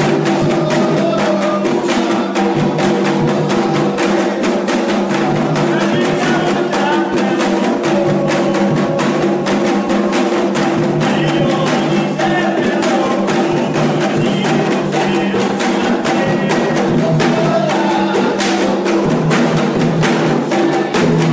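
Candomblé ritual drumming: hand drums beating a fast, dense rhythm, with a clacking wood-block or bell pattern on top, over steady held tones.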